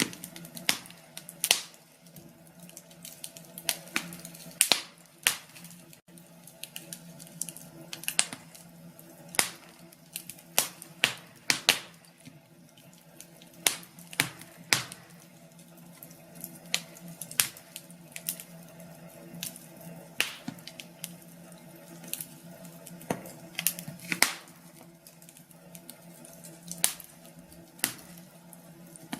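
Wood fire crackling in a fireplace: irregular sharp crackles and pops, a few of them loud, over a faint steady low hum.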